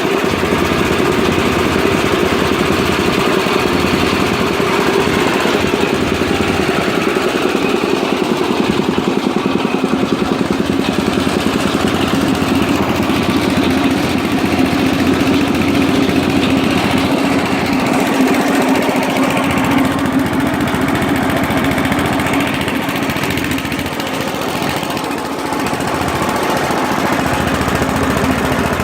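1998 Ingersoll Rand 2475F11G gasoline-engine-driven two-stage air compressor running steadily, with a slight dip in level late on.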